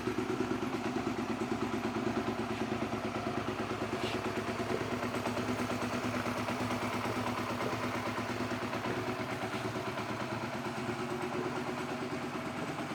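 2006 Suzuki SV650's V-twin engine idling steadily with an even pulsing beat.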